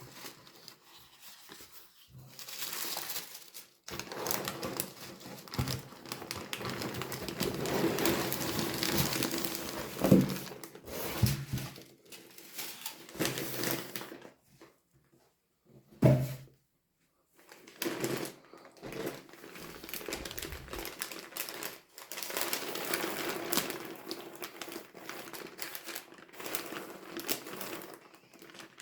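Packaging being opened by hand: wrapping crinkling and rustling in long spells, with a few sharp knocks, the loudest about ten and sixteen seconds in.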